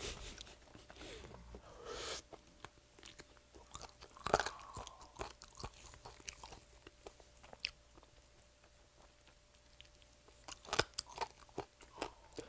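Close-up eating sounds of sauced fried chicken: biting and chewing, with crunches and small wet clicks. The loudest bites come about four seconds in and again near eleven seconds.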